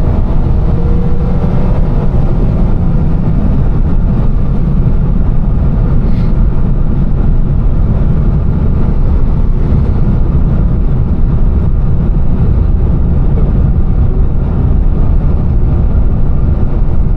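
Car on the move: a loud, steady rumble of engine, road and wind noise, with no clear revving.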